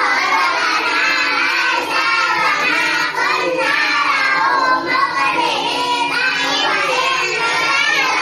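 A class of young children chanting a prayer together in a sing-song unison: the Islamic doa recited when boarding a vehicle.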